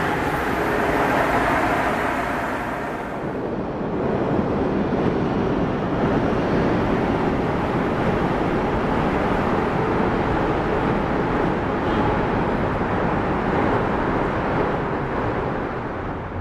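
Amtrak Acela Express electric trainset moving along the station platform: a steady, loud rush of wheel and motor noise, its hiss dulling a few seconds in.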